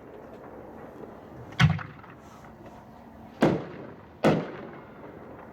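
Consumer 6-inch artillery shells being fired: three sharp bangs, the last two less than a second apart, each trailing off in a short echo.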